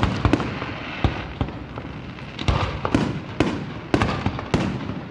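Aerial fireworks shells bursting: a quick run of sharp bangs near the start, then more bangs every half second or so from about two and a half seconds in, each followed by a short rumbling echo.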